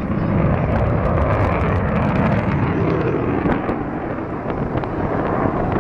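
Loud jet noise from a Eurofighter Typhoon's twin turbofan engines as it flies past, the tone of the rumble shifting as it goes by; loudest in the first half, easing a little near the end.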